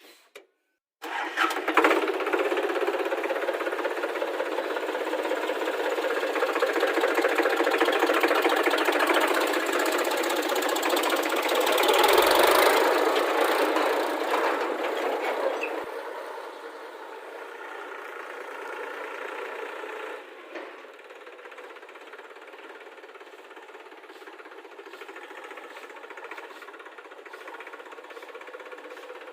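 Heavy diesel engine running hard, starting suddenly about a second in and loudest around twelve seconds. It drops to a lower, steadier level after about sixteen seconds.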